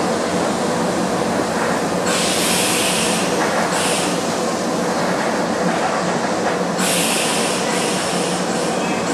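Interior running noise of a Hokuso 7260 series electric train, an old resistance-controlled car with parallel-cardan drive, rolling into a station: a steady rumble of wheels and running gear. Several short bursts of high hiss cut across it, about two seconds in, again around four seconds, and near seven seconds.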